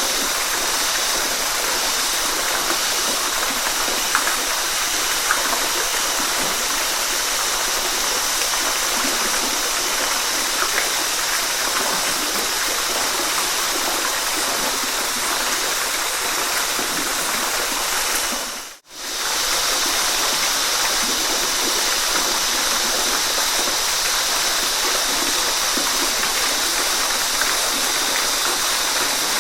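Waterfall rushing with a steady hiss of falling water. About two-thirds of the way through, the sound dips out for a moment and fades straight back in, like a loop point in the recording.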